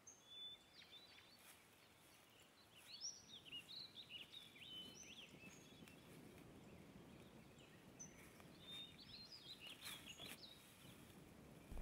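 Faint birdsong: scattered short chirps and whistles over quiet woodland ambience, with a soft low rustle in the middle.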